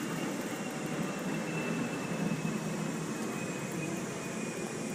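Steady background hum and hiss with a faint thin high whine held through it; no distinct event stands out.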